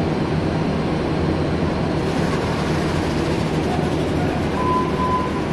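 Passenger train coaches rolling along the station track, a steady rumble of wheels on rail, with a short thin tone near the end.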